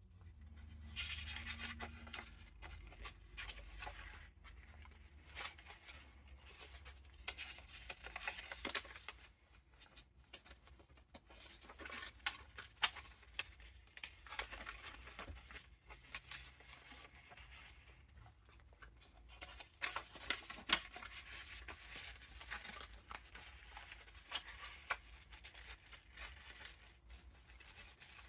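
Paper pages of a handmade junk journal with vintage ephemera being turned and handled: rustling and crinkling in irregular bursts, with sharp page flicks and taps.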